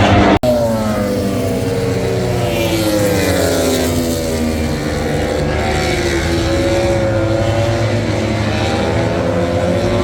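MotoGP racing motorcycle engine, its pitch falling steadily as the bike slows, then climbing again near the end as it accelerates. A brief dropout about half a second in.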